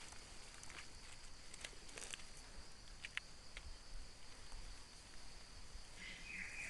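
Quiet forest ambience: a steady high insect drone with a few faint crackles of leaf litter and twigs underfoot. Near the end a short high tone sounds, which may come from a bird or an insect.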